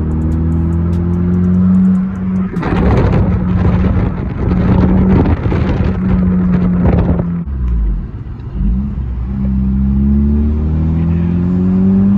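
2014 Honda Civic Si four-cylinder engine with a muffler-deleted exhaust accelerating, its pitch climbing through the gears. In the middle the pitch holds steady for about five seconds under a loud rough noise, then drops near eight seconds and climbs again.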